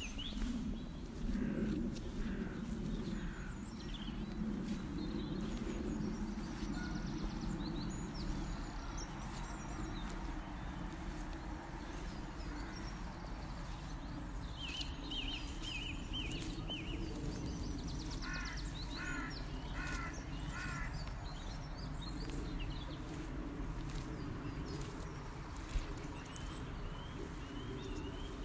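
Countryside ambience: wild birds calling and chirping here and there over a steady low rumble, with a run of four repeated calls, about a second apart, roughly two-thirds of the way through.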